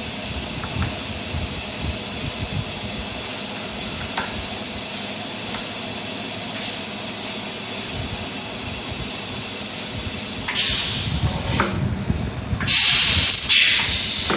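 Pneumatic shaft-pressing machine for ceiling fan stators: a steady machine hum with faint regular ticks, then loud hisses of compressed air, once about ten seconds in and again, longer, near the end.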